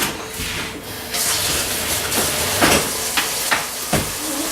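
Kitchen tap running steadily, starting about a second in, as a mixing utensil is rinsed under it, with a few short clinks and knocks against the sink.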